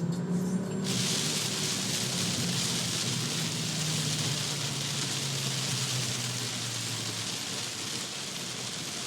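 Torrential rain pouring down in a dense, steady hiss that comes in suddenly about a second in. A low hum runs underneath and fades out near the end.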